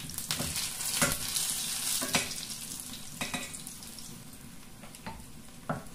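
Shredded-potato patties sizzling in hot oil in a stainless steel frying pan, with a spatula clicking and scraping against the pan several times. The sizzle slowly dies down.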